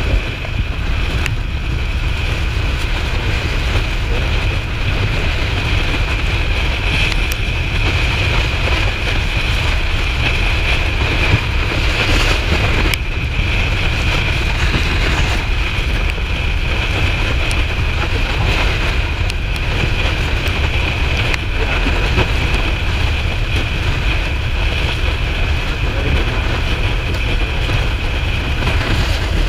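Steady wind noise on the microphone of a Kawasaki Ninja 400 riding at speed, with the motorcycle's running sound underneath.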